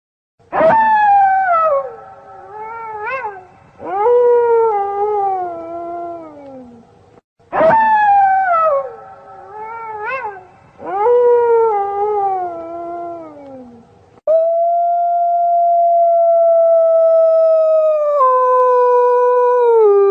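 Wolves howling: long falling howls with a short rise-and-fall call between them, the same sequence heard twice. This is followed by one long, steady held howl that drops to a lower pitch in a step near the end.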